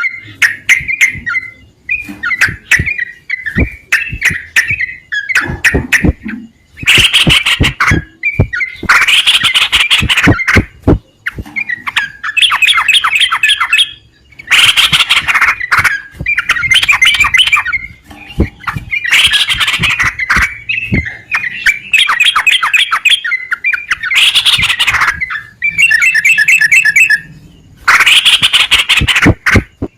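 Yellow-vented bulbul (trucukan) singing and calling over and over. Loud, bubbly chattering phrases alternate with harsher squawking bursts, each lasting a second or two, with short pauses between them.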